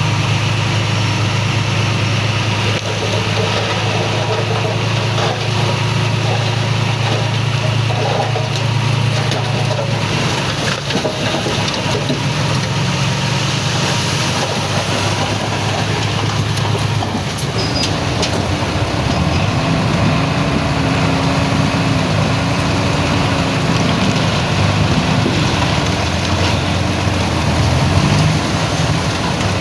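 Heavy diesel earthmoving machinery running: a steady low engine drone. In the second half the engine pitch rises and falls repeatedly as it works under changing load.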